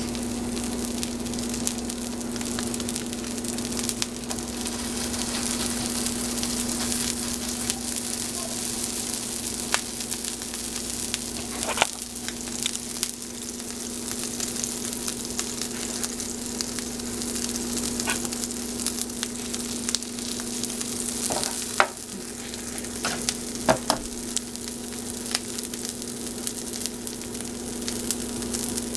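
Chickpea kebabs frying in a little oil on a hot tawa: a steady sizzle with a few sharp pops scattered through it.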